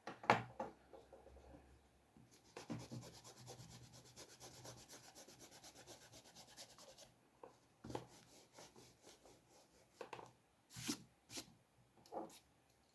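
Rapid back-and-forth rubbing on paper lasting a few seconds, with several sharp taps and knocks on the desk before and after.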